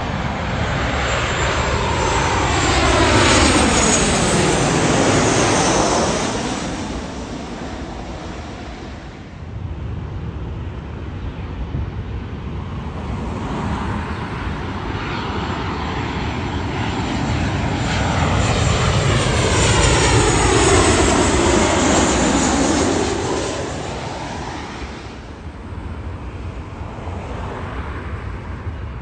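Two airliners pass close, one after the other. Each engine noise swells to a loud peak, about four seconds in and again about twenty-one seconds in, with a sweeping, phasing whoosh, then fades.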